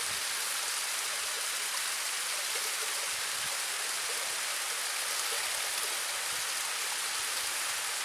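Small seasonal waterfall: water falling and splashing in a steady hiss.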